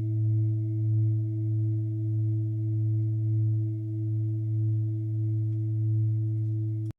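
Singing bowl ringing in one long steady tone with a slow wavering pulse about once a second, cutting off suddenly near the end.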